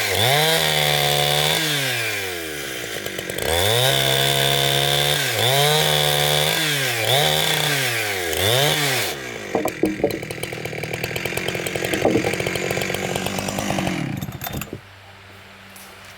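Chainsaw engine revving up, holding high and dropping back, about five times in the first nine seconds. It then runs lower and rougher amid clicks and knocks, and drops away sharply near the end, leaving a faint low hum.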